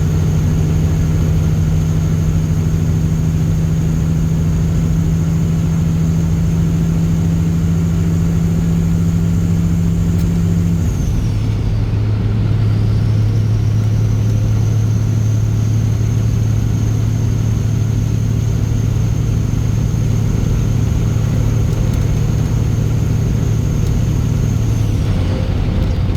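Straight-piped Caterpillar C15 ACERT diesel in a semi truck running steadily under load at highway speed. About halfway through, the engine note drops to a lower pitch, as in a gear change, and a high whistle falls away and builds back up. Near the end the note changes again.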